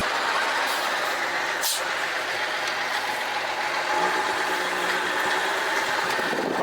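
A vehicle engine running steadily, with a single short click about a second and a half in.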